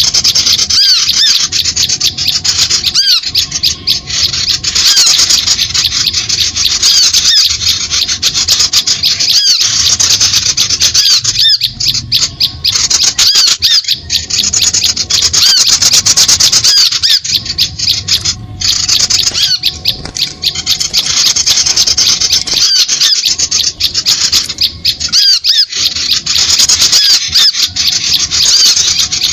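Dense, continuous chattering and squawking of small birds, with many rapid arching chirps overlapping. It is a bird-lure call recording of the kind played to draw birds down to birdlime.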